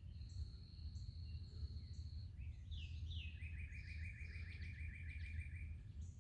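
Faint wild birdsong: short high chirps and a few falling notes, then a rapid, even trill of about seven notes a second through the middle, over a steady low background rumble.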